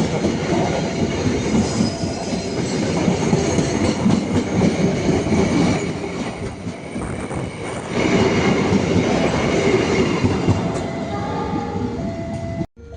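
A train rolling past close by, its carriages rumbling over the rail joints in a clickety-clack with some wheel squeal; the sound cuts off suddenly near the end.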